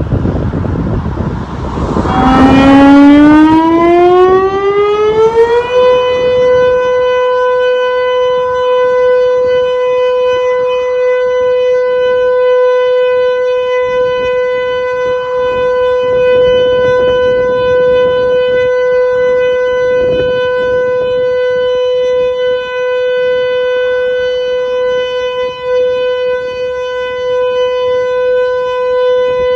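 Severnside siren starting up after a repair: its tone winds up steadily in pitch over about four seconds, then holds one loud, steady note. Wind noise on the microphone is heard just before it starts.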